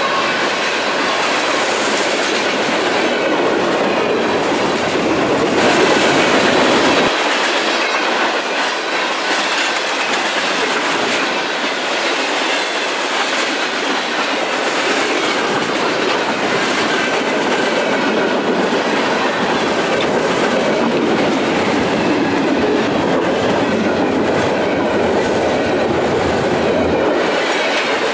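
Union Pacific manifest freight train passing at speed, its wagon wheels clattering steadily over the rail joints, with a light squeal from the wheels.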